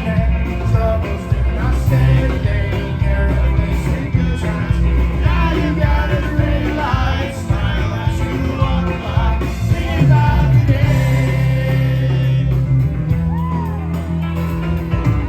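Live rock band playing loudly, a lead line with bending notes over a full bass and drum backing.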